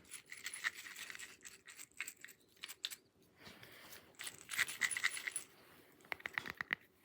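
Small metal pieces jingling and clinking: quick runs of sharp clicks with a bright ringing, in three bursts with short pauses between.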